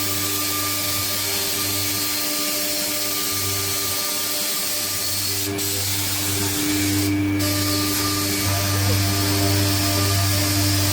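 Weeke Vantage 100 CNC machining centre running: a steady hum and whine over a constant hiss, with a click and then a short burst of hiss a little past the middle.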